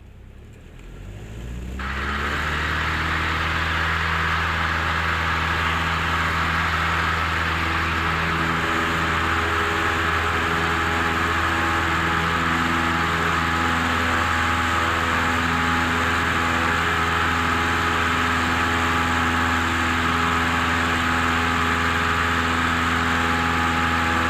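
Cessna 172M's four-cylinder Lycoming O-320 engine and propeller throttled up from idle to full power for the takeoff of a touch-and-go: the engine note rises in pitch and loudness over about two seconds, then holds steady at full power.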